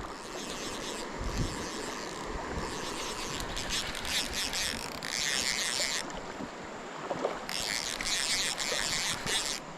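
Steady rush of river water while a hooked smallmouth bass is fought, with three stretches of fast, bright rasping that fit a spinning reel being cranked.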